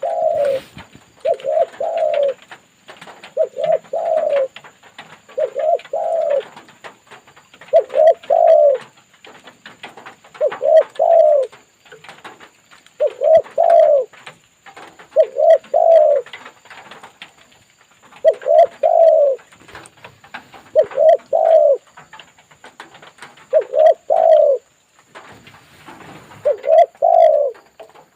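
Spotted dove cooing over and over: a decoy bird calling in answer to a wild dove. Each short low phrase of a few coos comes about every two seconds, with faint ticking between the phrases.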